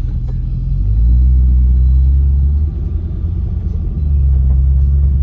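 Low, steady rumble of a car driving slowly, heard from inside the cabin; it swells about a second in, drops back near three seconds and swells again about four seconds in.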